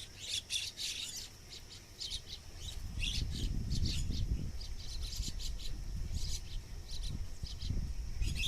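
Birds chirping in many quick, short calls over a steady high whine, with a low rumble coming in about three seconds in.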